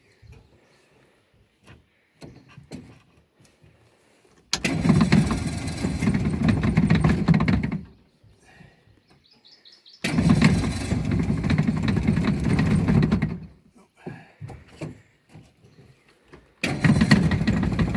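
1959 Johnson 35 hp Super Sea-Horse two-stroke outboard motor being started three times. Each time it runs for about three seconds and then cuts out, which the owner puts down to the idle being set too low. Birds chirp faintly in the quiet gaps.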